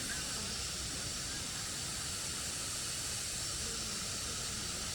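Steady rushing of flowing water, a continuous even hiss with a low rumble underneath, typical of a waterfall.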